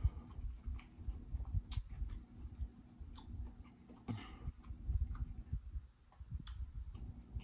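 Close-miked chewing: a person eating, with irregular soft wet mouth sounds and a few sharp lip-smack clicks.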